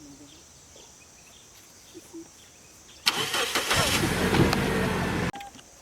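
Car engine being cranked on the starter for about two seconds, then cut off suddenly without running on.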